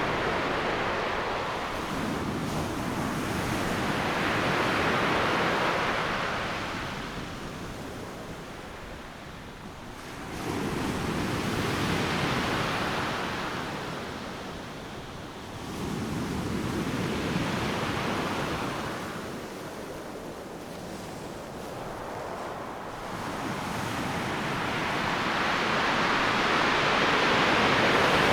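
Ocean surf breaking on a beach: a steady rush of water noise that swells and falls back as about four waves surge in one after another.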